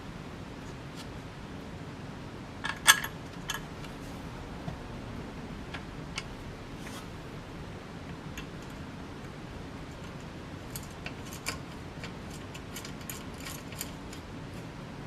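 Scattered small metallic clicks and clinks of ceiling-fan hardware being handled: blade screws and blade irons are being fitted. A brighter cluster of clinks comes about three seconds in, and lighter ticks follow in the second half.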